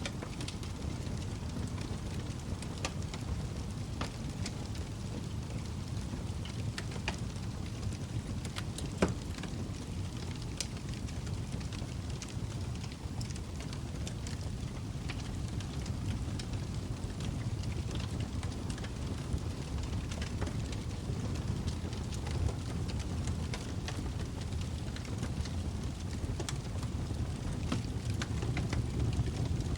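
Log fire burning in a fireplace: a low steady rumble of flames with scattered sharp crackles and pops from the burning wood, one louder pop about nine seconds in.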